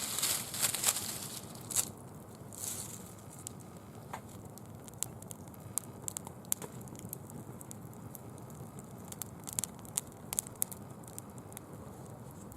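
Bonfire burning dry fallen leaves: a dense burst of crackling in the first second or so and a shorter one near three seconds, then scattered single pops over a low steady hiss of the fire.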